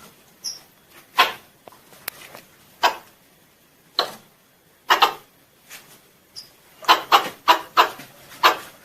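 A squirrel (tupai) calling: short, sharp chucks at irregular intervals, crowding into a quick run of about seven near the end. These are the calls it uses to draw other squirrels in.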